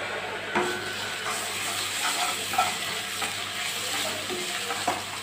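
Chopped onions, green chillies and ginger-garlic paste sizzling in oil in a metal kadai while a metal ladle stirs and scrapes them. A few short clicks of the ladle against the pan come through. This is the sauté that cooks off the raw smell of the ginger and garlic.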